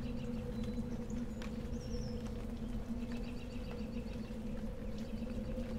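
Outdoor ambience of small birds chirping: quick trills of repeated high notes, with a short falling whistle about two seconds in, over a steady low hum.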